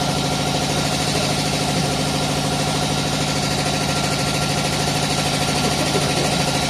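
A machine running steadily with a fast, even pulsing hum that does not change.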